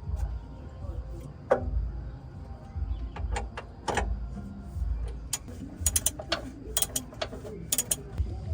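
Irregular sharp clicks and knocks over a low steady rumble, coming thicker and faster in the second half.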